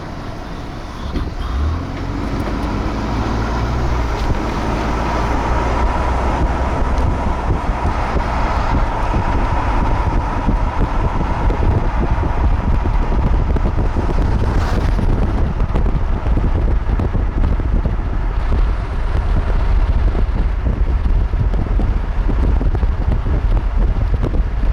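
Steady low rumble of a moving vehicle, with road and wind noise, building over the first few seconds and then holding.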